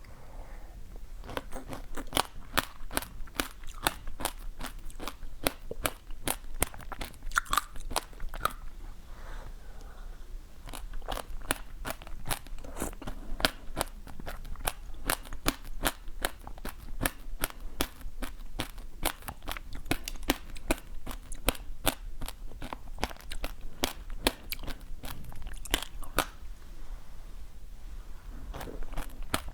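Close-miked chewing of crunchy food: a steady run of crisp crunches, two or three a second.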